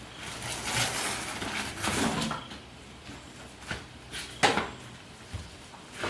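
Handling noises: a rubbing or scraping stretch, then a few knocks, the loudest and sharpest about four and a half seconds in.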